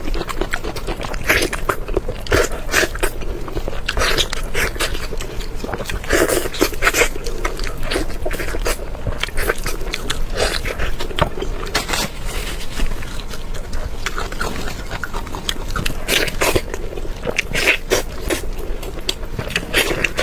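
Close-miked eating sounds: a person biting and chewing crunchy food, with irregular crackling crunches throughout.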